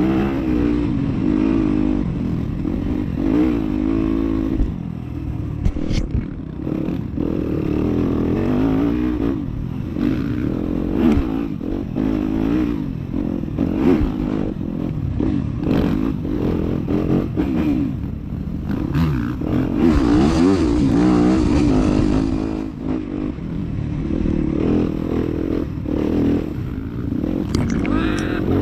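Dirt bike engine running and revving, its pitch rising and falling again and again. About twenty seconds in there is a stretch of hissing noise.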